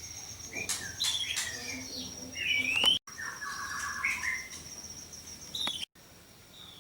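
Caged songbirds chirping and whistling, with short rising and falling notes, over a steady high-pitched trill. The sound cuts out abruptly twice.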